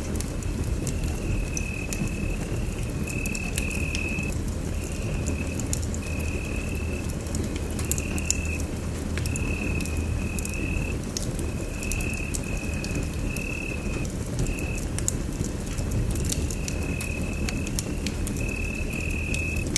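Wood fire in a fireplace crackling, with scattered sharp pops over a steady low rumble of the flames. A high trill repeats in short bursts of under a second throughout.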